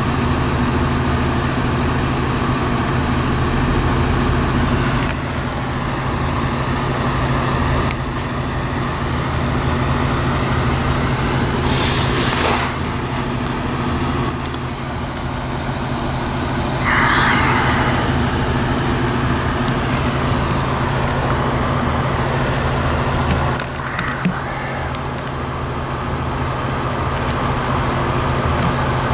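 Street traffic over the steady low hum of an idling vehicle engine. A short rush of noise comes about 12 seconds in, and a brief higher-pitched sound about 17 seconds in.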